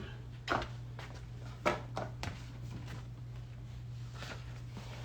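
A few short, light clicks and handling noises over a steady low electrical hum.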